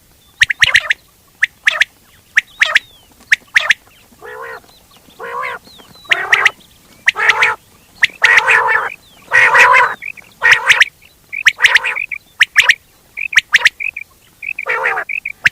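Quail calling in a loud repeated series: quick sharp clicking notes at first, then from about four seconds in longer, harsher calls roughly once a second, then short clear whistled notes near the end.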